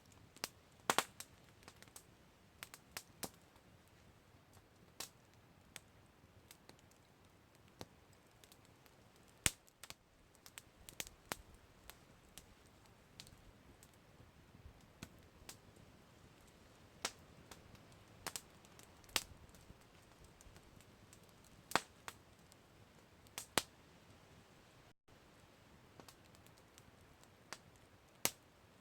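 Campfire crackling: irregular sharp pops and snaps of burning wood, a few a second at most, over a faint steady hiss.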